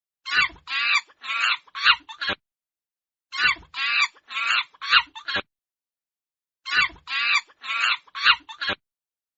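Chicken calls: three identical phrases of five quick, harsh calls, each phrase about two seconds long, with dead silence between them, as if one recording were repeated.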